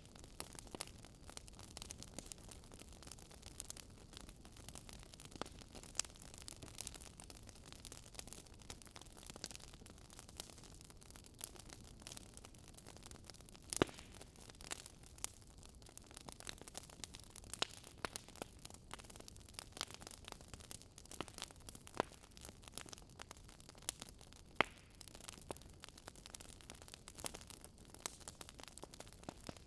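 Fire crackling: a soft steady hiss with frequent irregular crackles and a few louder sharp pops.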